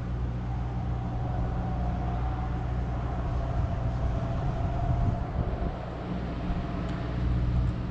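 Steady low rumble of passing road traffic, with a faint drawn-out hum held through most of it.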